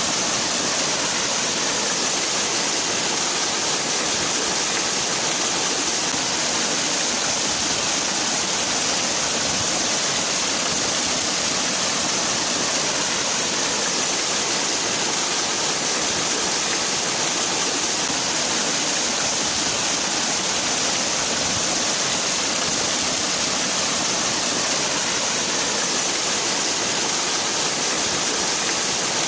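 A waterfall pouring steadily: an even rushing hiss of falling water, strongest in the high end, with no breaks or changes.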